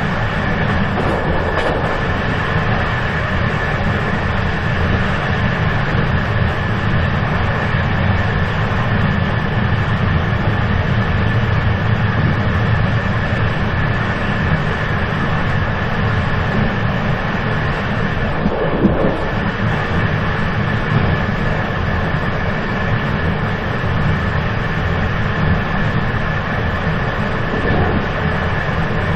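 Steady rumble of a moving train, with a constant thin whine held above the noise.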